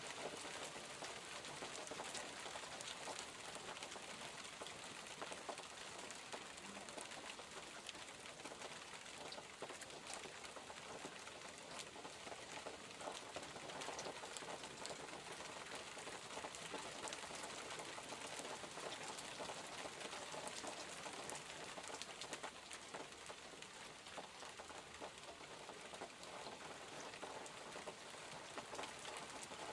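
Steady rainfall, with many individual drops ticking close by.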